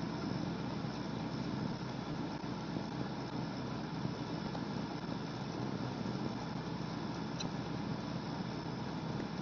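1985 Chevy van's engine running steadily with no revving, through its freshly shortened dual exhaust.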